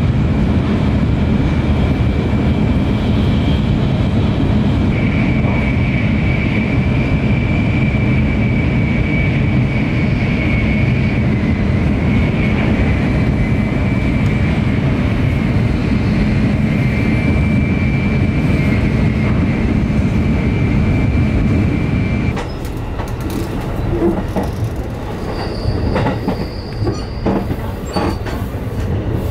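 Train running on the rails: a loud steady rumble with a high-pitched whine held over it for about twenty seconds. Then it turns quieter, with scattered sharp clicks and knocks.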